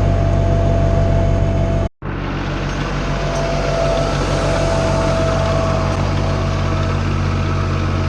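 Tractor engine running steadily at working revs, with a steady high whine over it. The sound drops out for an instant about two seconds in, then continues unchanged.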